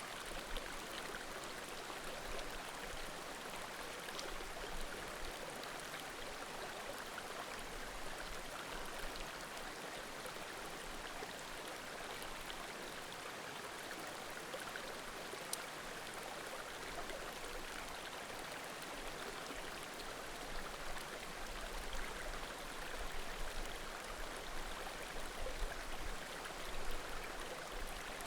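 Small mountain creek running with a steady murmur, with a few faint pops from burning firewood.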